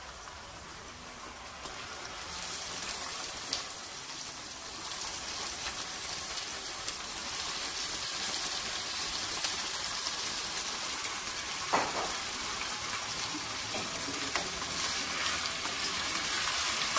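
Chicken pieces sizzling as they fry in a pan with green pepper and honey; the sizzle grows louder about two seconds in and stays steady, with a sharp knock about twelve seconds in.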